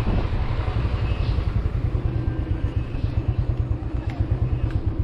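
Motorcycle engine running as the bike is ridden, with steady pulsing and noise from the ride.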